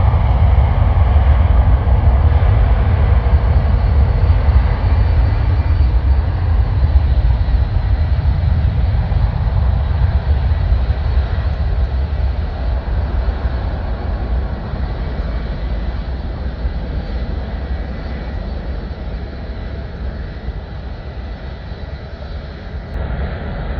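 Jet airliner's engines rumbling, with a faint steady whine above the rumble, slowly fading as the plane moves away.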